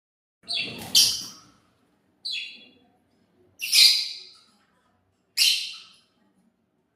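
A pet parrot giving four short, high-pitched calls about a second and a half apart, the first one doubled.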